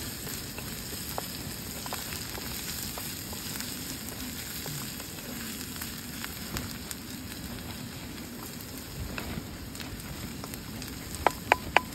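Chopped onions frying and sizzling in oil in a small kadhai while they are stirred with a wooden spatula. A quick run of sharp clicks near the end.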